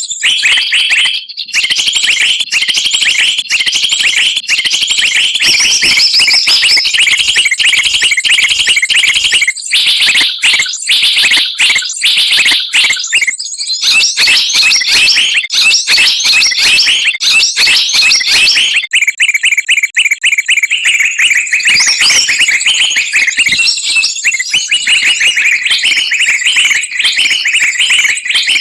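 Bird-lure recording of many small songbirds calling at once: a loud, dense, noisy chorus of rapid, high-pitched chirps and trills that never pauses. About two-thirds through, the low background drops away while the chirping keeps on.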